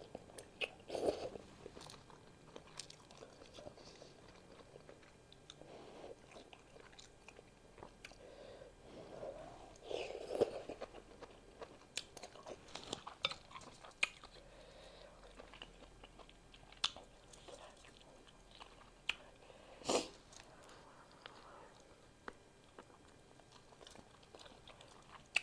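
Close-up eating sounds of beef pho: chewing and wet mouth clicks on rice noodles and beef, with a few louder bites about a second in, around ten seconds and near twenty seconds.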